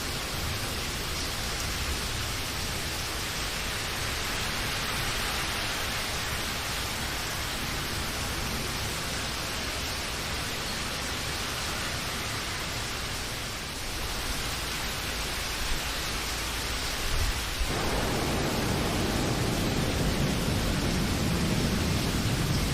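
Steady rain, an even hiss. About three-quarters of the way through, a deeper rumbling layer comes in beneath it and the sound grows slightly louder.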